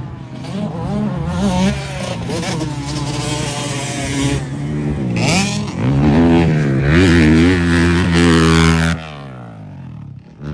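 Dirt bike engines revving on a motocross track, the pitch rising and falling as riders work the throttle. The engines are loudest and held at high revs in the second half, then drop away sharply near the end.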